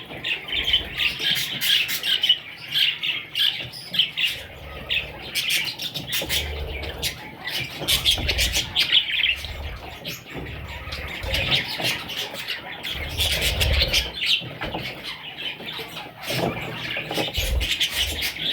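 Budgerigars chattering and squawking continuously in a dense run of chirps, with a few low rumbles underneath.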